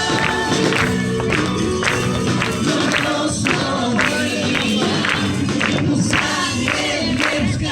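Christian worship song: several voices singing together over a steady percussion beat of about two strokes a second.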